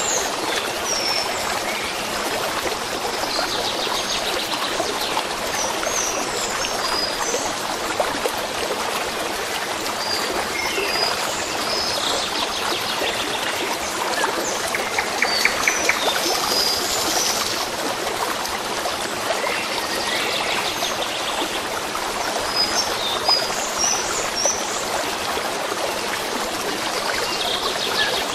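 Steady running water of a stream, with small birds chirping and trilling on and off over it.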